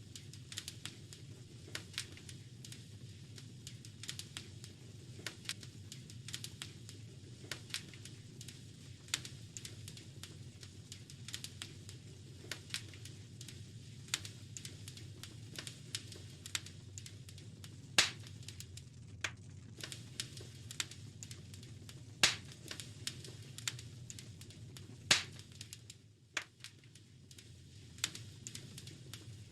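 Wood fire in a fireplace crackling and popping irregularly over a steady low rumble of the flames, with a few sharper, louder pops in the second half.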